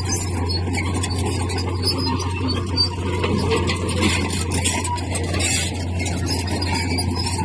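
Komatsu bulldozer's diesel engine running steadily under load, with metal squealing from its steel tracks and scattered clicks.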